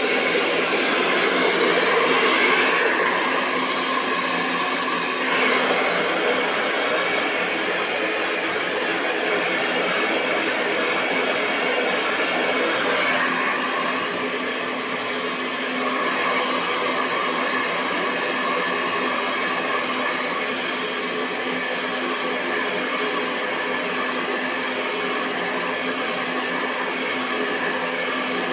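Hair dryer running continuously: a steady rush of blown air over the hum of its fan motor, the tone shifting slightly a few times.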